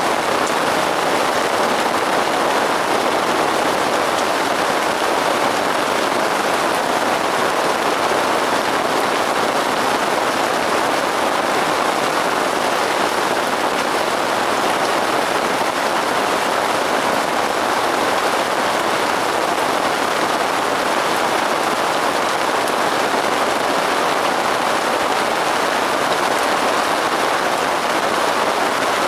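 Steady rain falling on a surface, an even, unbroken patter.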